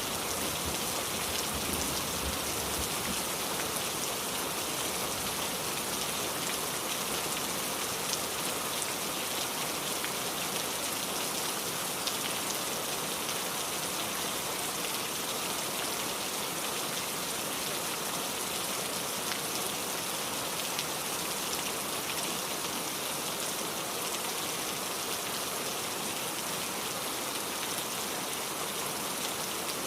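Steady heavy rain falling, an even hiss of drops with no break. A low rumble fades out in the first few seconds.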